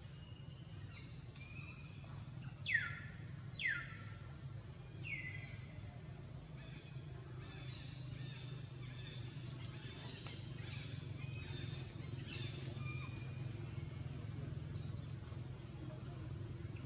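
Birds calling in the trees: a few loud down-slurred whistles in the first five seconds, then a run of short, high, repeated chirps, over a steady low background hum.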